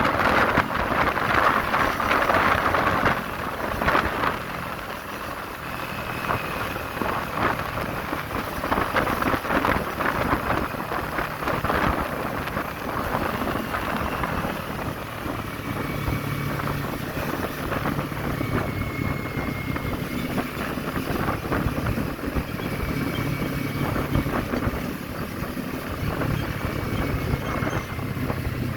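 Kawasaki Z400 parallel-twin engine running on the move, with heavy wind buffeting on the microphone. The wind is loudest in the first few seconds; the engine's steady note stands out more in the second half.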